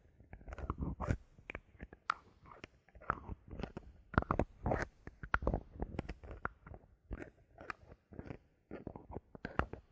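Bottle caps being handled and fiddled with: a dense, irregular run of clicks, taps and short crackles, some louder strokes around four to six seconds in.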